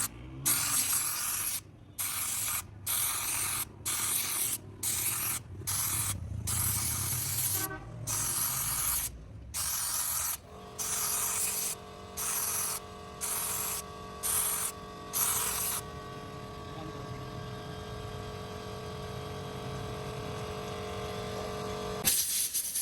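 Aerosol carburettor jet cleaner sprayed in a long run of short hissing bursts, about one a second, stopping about two-thirds of the way through. A steady hum with a few held tones starts partway through and carries on after the spraying ends.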